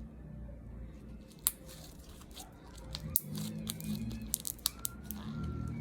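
ASMR crinkling and crackling made close to the microphone: scattered sharp crackles that grow denser about three seconds in.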